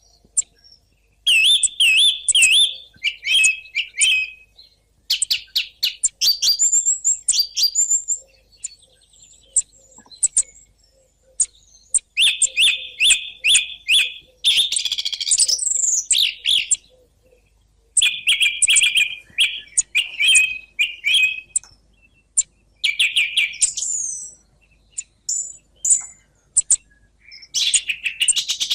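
Song thrush singing: bursts of whistled and chirping phrases, each phrase usually repeated several times in quick succession, with short pauses between bursts.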